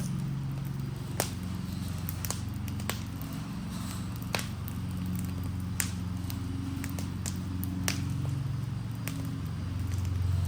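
Burning Adirondack chair crackling, with sharp irregular pops about once a second over a steady low rumble.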